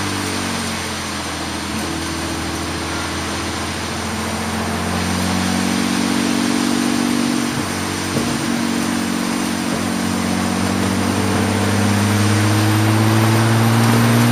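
Race car engine heard from inside the cockpit, its pitch falling at first, then climbing as the car accelerates, with a brief break about eight seconds in before it climbs again. Steady wind and road hiss runs underneath.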